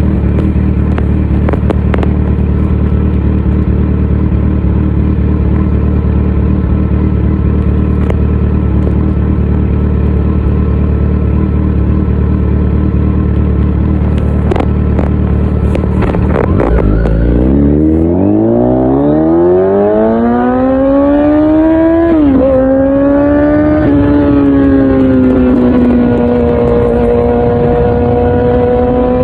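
Kawasaki Z900's inline-four engine breathing through an Akrapovic full exhaust system. It first runs steadily at low revs, then accelerates hard with rising pitch from about two-thirds of the way in. There is a brief drop in pitch at one upshift, and it settles to a steady cruise near the end.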